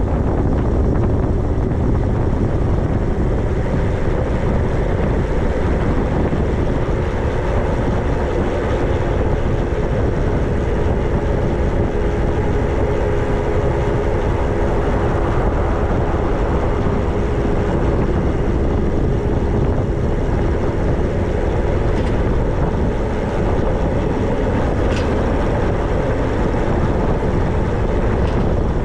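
Riding an e-bike: wind buffets the microphone in a loud, steady rush. From about eight seconds in until past twenty, a steady hum is heard under it, likely the electric motor.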